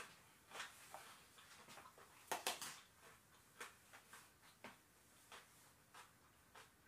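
Chewing a crisp fried wonton: scattered crunches and mouth clicks, with a louder cluster of crunches about two and a half seconds in.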